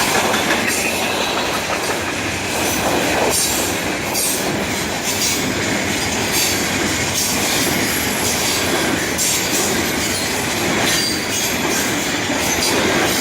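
Freight cars of a passing train rolling by at close range: a steady rumble of wheels on rail, with irregular sharp clicks as the wheels cross rail joints.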